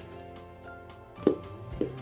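A rubber bouncy ball bouncing twice in the second half, two sharp knocks about half a second apart, over steady background music.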